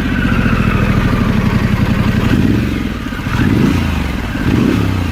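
Harley-Davidson Pan America 1250's V-twin engine just started, idling through a Toco cat-back exhaust with its muffler box removed, with a couple of short throttle blips in the second half.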